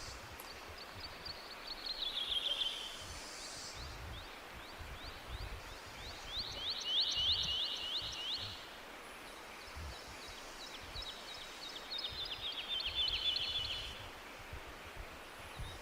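A songbird singing three trilled phrases, each a quick run of short down-slurred whistled notes that speeds up and grows louder, over a steady low background rumble.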